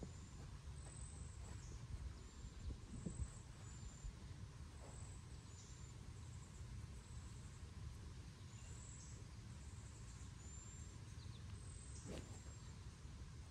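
Birds chirping with short, high, falling calls every second or two over a low steady outdoor noise, and one sharp click about twelve seconds in.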